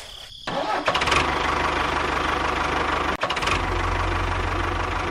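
A motor starts about half a second in and runs steadily, with a brief dip a little past halfway.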